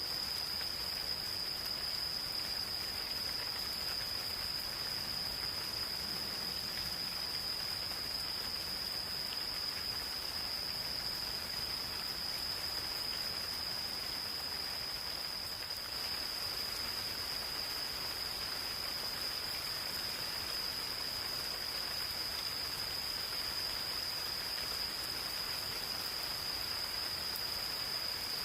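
Gentle rain falling in a forest, a steady patter, with an insect singing one unbroken, high-pitched steady trill over it.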